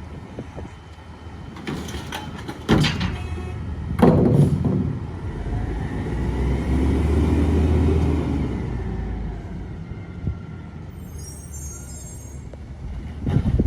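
Mack MRU rear-load garbage truck with a McNeilus body working at the curb: two loud bangs a few seconds in, then the engine revs up for a few seconds, rising and falling in pitch as the packer cycles, and settles back to idle.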